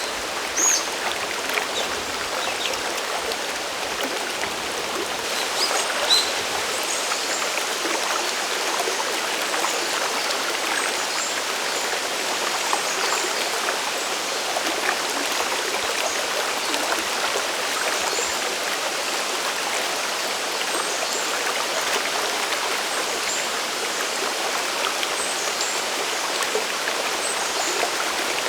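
Mountain waterfall and stream water rushing and splashing in a steady, even hiss, with a few short high chirps near the start and about six seconds in.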